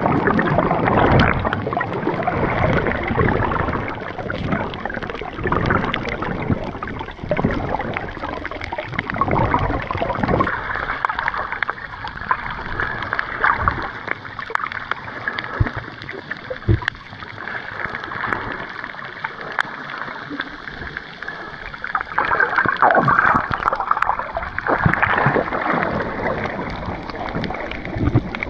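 Water splashing and sloshing in irregular bursts, with the loudest stretches about two seconds in and again from about twenty-two seconds in.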